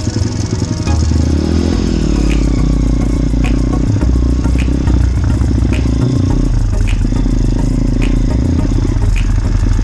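Small motorbike engine running under way, its pitch rising and falling as the throttle changes, with a short rattle or knock about once a second as it goes over rough ground.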